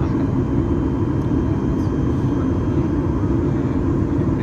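Steady low cabin drone of a Boeing 737 MAX 8-200 in flight, from airflow over the fuselage and its CFM LEAP-1B engines.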